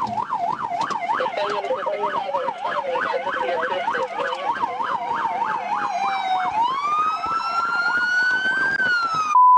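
Emergency vehicle sirens: a fast yelp, about four up-and-down cycles a second, overlapped by a slower wail that falls and then rises once the yelp stops about two-thirds of the way through. A short loud steady tone comes right at the end.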